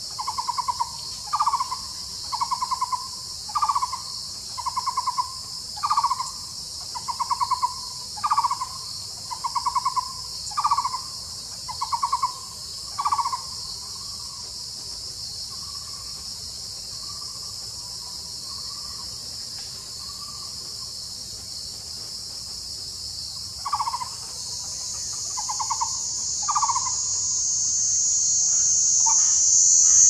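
A bird calling in a long series of short rattling notes, about one every 0.7 seconds, fading after about 13 seconds and returning briefly near 24 seconds. Under the calls runs a steady high-pitched insect drone that grows louder near the end.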